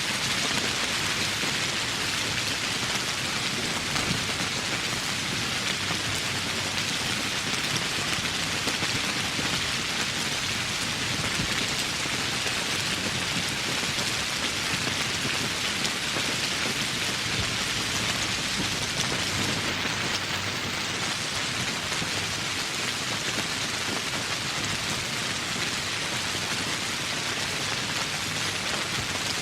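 Steady rain falling: a dense, even hiss of drops that keeps up without a break.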